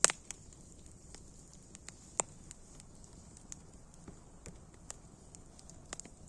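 Campfire crackling: irregular sharp pops and snaps of burning wood over a faint steady hiss, with a loud pop at the start and another about two seconds in.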